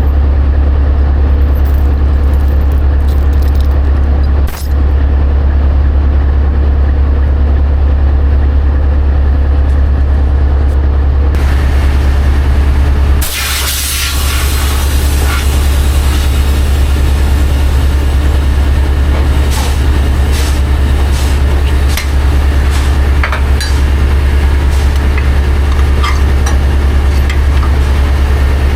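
Heavy diesel engine running steadily with a strong low drone. About 13 seconds in comes a short burst of hissing air.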